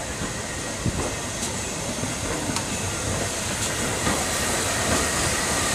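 Steam-hauled train running along the track: a steady rumble and hiss with a few irregular clicks of wheels over rail joints, growing slightly louder.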